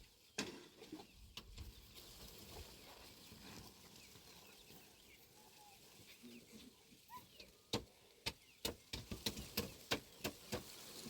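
Faint outdoor sounds with a few short chirps, then, in the second half, an irregular run of sharp knocks or taps, several a second.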